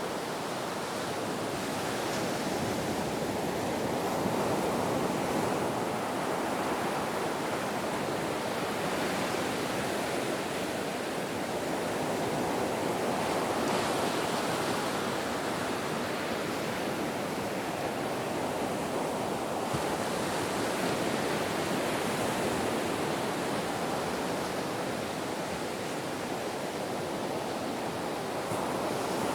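Ocean waves washing onto a shore in a continuous wash, swelling and easing every several seconds.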